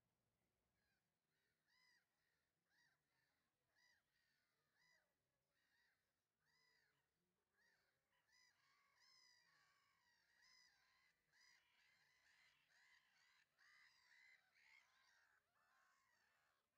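Near silence, with very faint repeated bird calls: short arched calls about once a second at first, coming faster and overlapping in the second half.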